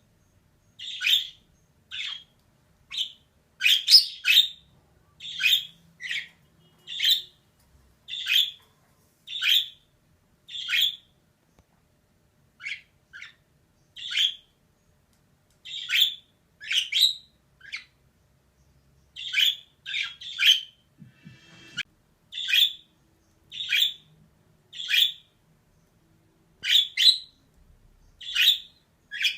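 Female budgerigar giving short, sharp chirping calls about once a second, some in quick pairs, with two brief pauses.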